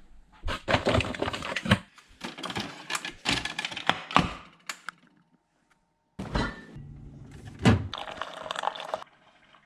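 A quick series of knocks, clunks and clatter in two spells, with a second of near silence between them.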